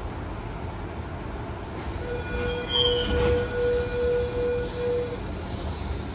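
Low steady rumble of a Tangara electric train standing at a platform. From about two seconds in, a steady high tone sounds for about three seconds, swelling and fading several times, with a brief higher chirp near its start.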